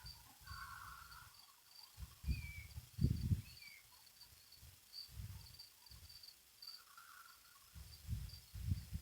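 Insects chirping in a steady, evenly pulsed high trill, with a few short bird chirps. Irregular low rumbles come and go underneath, the strongest about three seconds in and near the end.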